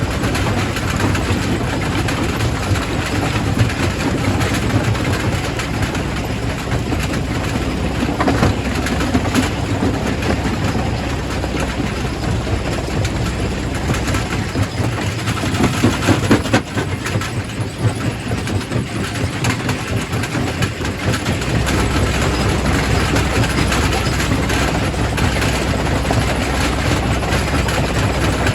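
Quarry primary rock crusher running: a steady heavy machine drone under continuous clattering and grinding of rock, with a few louder knocks about eight and sixteen seconds in.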